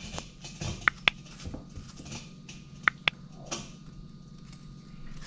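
Metal kitchen utensils clinking: two pairs of quick, ringing clinks about two seconds apart, over faint background noise.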